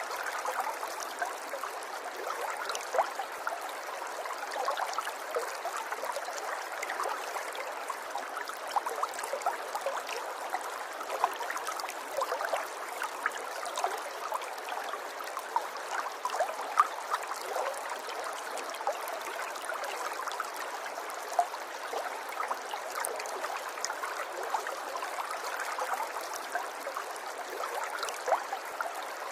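River water flowing over stones, a steady babble scattered with many small splashes and trickles.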